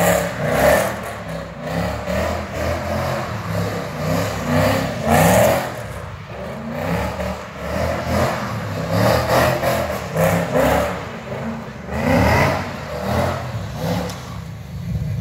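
Car engine revving again and again, its pitch rising in short repeated climbs, with louder surges every few seconds.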